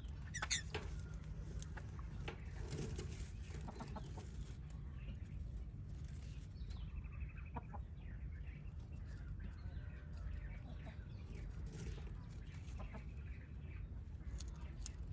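Birds calling in short, scattered chirps and clucks over a steady low hum, with a brief trill about seven seconds in.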